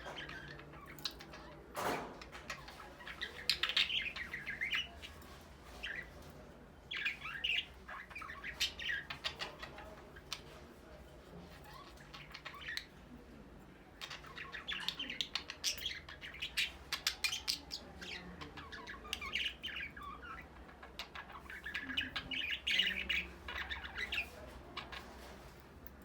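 Budgerigars chirping and chattering in repeated bouts, with one sharp knock about two seconds in.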